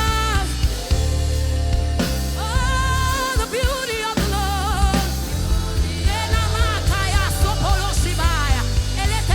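Gospel worship music: a woman's voice singing long, wavering held notes and runs over a band with bass and drums.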